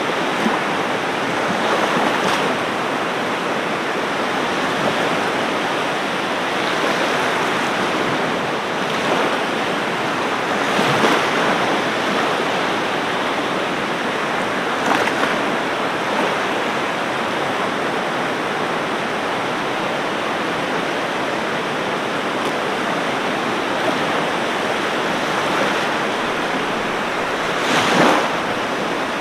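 Ocean surf: a steady wash of waves with brief louder surges as individual waves break, the strongest near the end.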